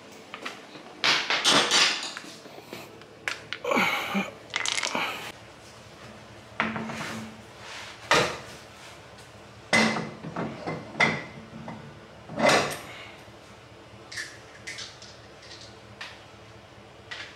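Irregular metallic clanks and knocks from tools and parts being handled during wheel repair work, with a couple of longer scraping or hissing stretches near the start.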